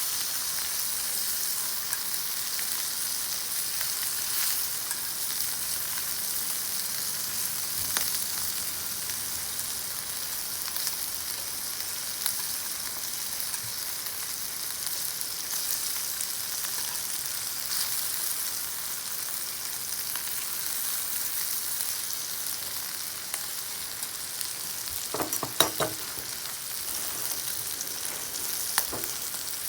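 Beef sizzling in a cast iron pan: a steady hiss with scattered pops. A short run of quick knocks comes near the end.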